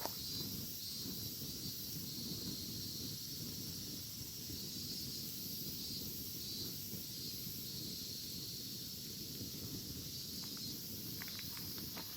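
Cicadas buzzing in a steady, high-pitched chorus over the low crackle of a campfire, with a few sharper pops near the start and near the end.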